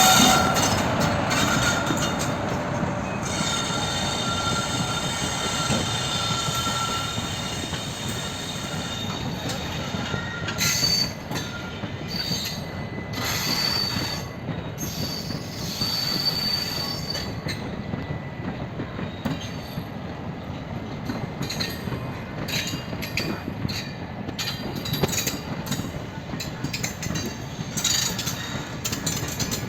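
Train running on the rails, its wheels squealing in several high, steady tones that come and go over the first half, over a continuous rumble of rail noise. Loudest at the start, then easing off.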